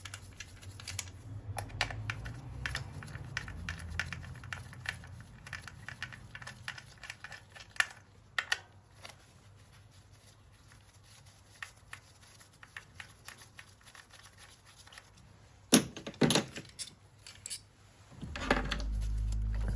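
Irregular light clicks and clatter of a socket ratchet and small metal engine parts being handled while 10 mm bolts and ignition coils are taken off; a few sharper knocks come near the end, followed by a low steady hum.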